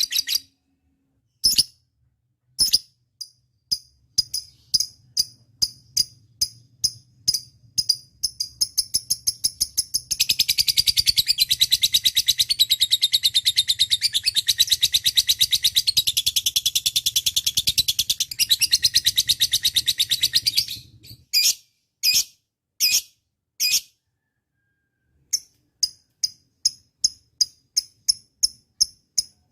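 Lovebird calling: a run of sharp high chirps that comes faster and faster, then a long rapid unbroken trill of about ten seconds. After that come a few separate chirps, a short pause, and another fast run of chirps near the end.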